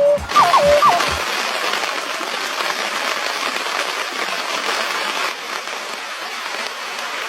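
A steady, even hiss fills most of the stretch. In the first second it overlaps the last few of a run of repeated falling whistle-like notes over low, regular thumps.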